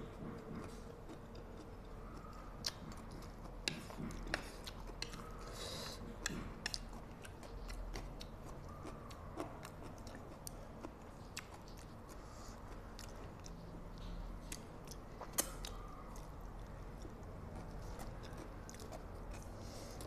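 A person chewing mouthfuls of spicy instant fried noodles close to a clip-on microphone, with scattered sharp clicks and smacks.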